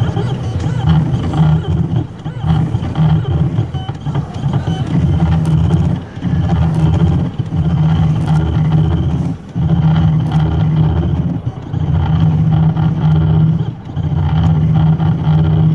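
Pet ID tag engraving machine running: a steady low mechanical buzz, broken by a few short pauses.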